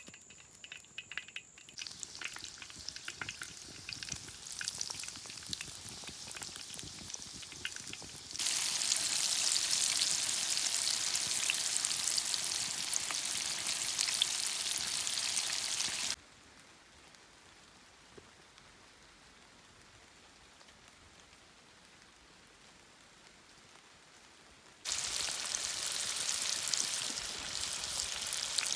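Food frying in a hot pan, an even sizzle with scattered crackles and pops. It turns much louder about eight seconds in, drops to a faint hiss at about sixteen seconds, and comes back loud near the end.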